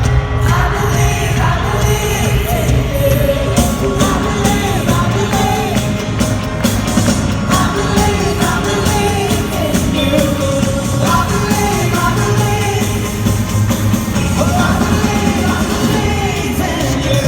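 A live worship band playing at full volume with a steady beat, while a singer and the congregation sing along, with some shouts from the crowd.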